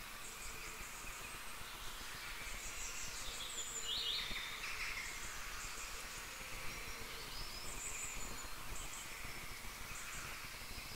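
Faint birds chirping over a steady low hiss: short, high, scattered chirps, with a few falling calls in the middle.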